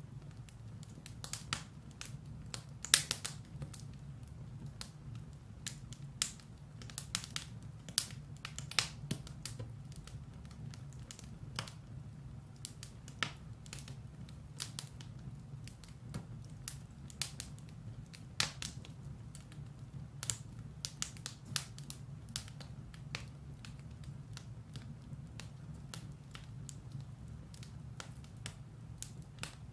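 Firewood burning in a fireplace: irregular sharp crackles and pops over a steady low rumble, the loudest pop about three seconds in.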